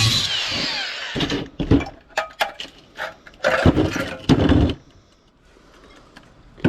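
A power tool winds down, falling in pitch, in the first second. Then comes a run of sharp knocks and clanks of scrap metal being handled, followed by a quieter stretch near the end.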